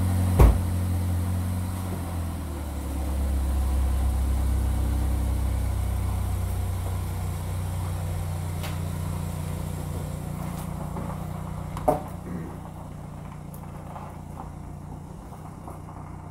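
Chevrolet Equinox engine running through a newly fitted two-chamber small muffler that replaced a split resonator muffler. A door thumps shut about half a second in; a couple of seconds later the engine note shifts lower and then fades steadily as the SUV backs out and pulls away, with a sharp knock about twelve seconds in.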